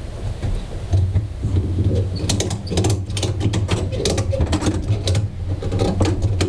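A small motor running steadily, with a rapid series of clicks and rattles from about two seconds in.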